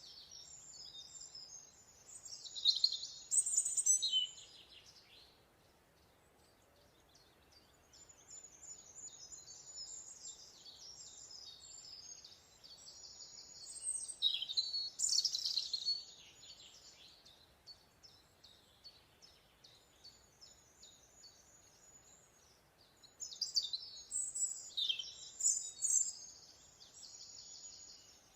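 Small songbirds singing: rapid, high-pitched chirps and trills that come in phrases, with three louder spells, over a faint background hiss.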